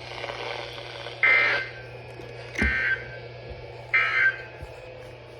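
Three short, shrill bursts of warbling digital data tones from a NOAA Weather Radio broadcast, about a second and a half apart: the SAME end-of-message code that closes the flood warning.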